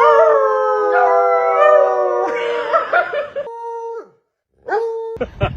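Dog howling: one long howl that slowly sinks in pitch, then after a short pause a brief second howl and a few quick choppy yelps at the end.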